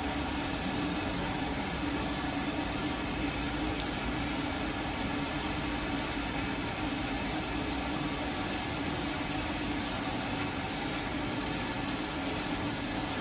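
Steady vehicle running noise: an even hiss with a constant low hum that does not change.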